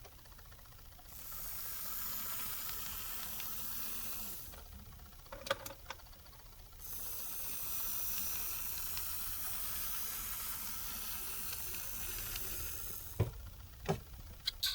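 KATO DD13 model diesel locomotive running on track, its small motor and gears giving a steady hissing whir. It runs twice, with a stop of about two seconds between, and there are sharp clicks in the pause and again near the end.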